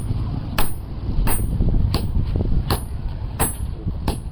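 Hammer striking metal in an even rhythm, about three blows every two seconds, over a steady low rumble.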